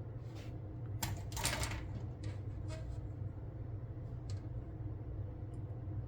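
Light clicks and short rustles of small hobby tools and model parts being handled on a workbench, the loudest cluster about a second in, over a steady low hum.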